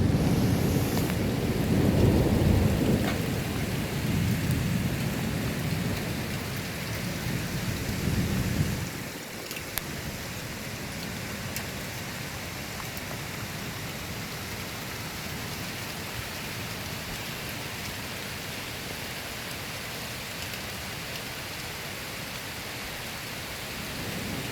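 Thunder rumbling and dying away over the first nine seconds or so, then steady rain.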